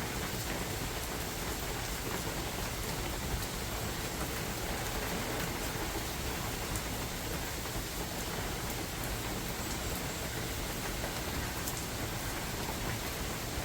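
Steady rain falling in a forest: an even hiss with scattered sharp ticks of nearby drops.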